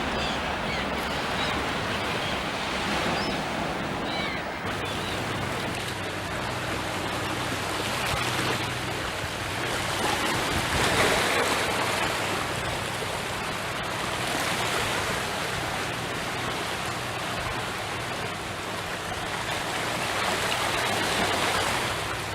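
Steady rush of flowing water, even and unbroken, with a few faint bird chirps in the first few seconds.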